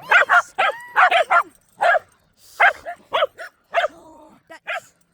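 Puppies barking excitedly in play: a quick, irregular string of about a dozen short, high barks, with a lower whine about four seconds in.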